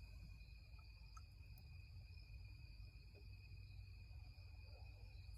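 Near silence: a faint steady high-pitched hum over a low background rumble.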